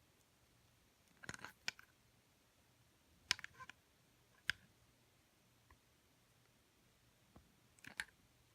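Scattered light clicks and taps of a small electric motor's metal can and end bell being handled and pressed together, in a few short clusters.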